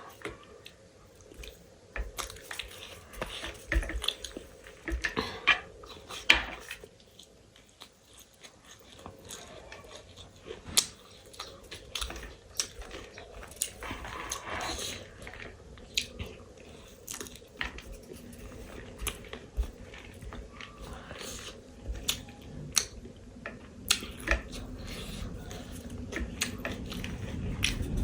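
A person chewing and crunching food close to the microphone, with irregular sharp clicks and an occasional clink of a spoon on a dish.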